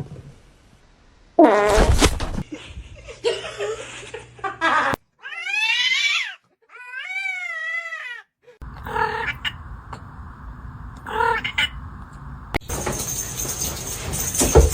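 Cat yowling: a short call, then two long, wavering, drawn-out calls in the middle, followed by rougher, noisier sounds.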